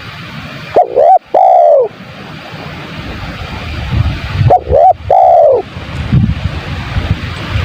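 Spotted dove (tekukur) cooing: two three-note calls about three and a half seconds apart, each a short note and then two longer arched coos, over a steady hiss and low rumble.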